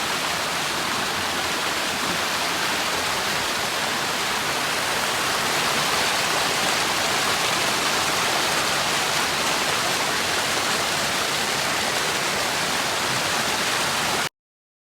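Waterfall: a steady, loud rush of falling water that cuts off suddenly near the end.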